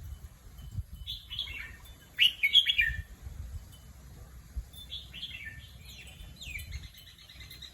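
Red-whiskered bulbul singing in short, bright, warbling phrases, four times, the second the loudest, over a low rumble.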